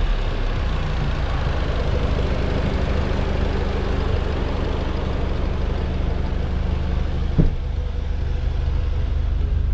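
Audi S3's turbocharged 2.0-litre four-cylinder with an aftermarket Armytrix exhaust, running at a steady low drone. A single short sharp pop stands out about seven seconds in.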